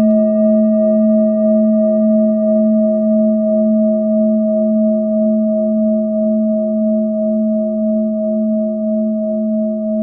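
Singing bowl ringing on after a strike, holding a strong low tone and a higher one with fainter overtones, slowly fading with a gentle wavering.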